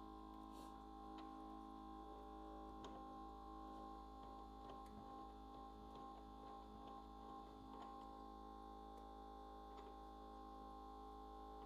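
Near silence: a faint steady hum with scattered faint ticks.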